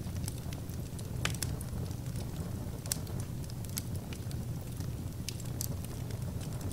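Wood fire burning in a fireplace: a steady low rumble of the flames, with scattered sharp crackles and pops.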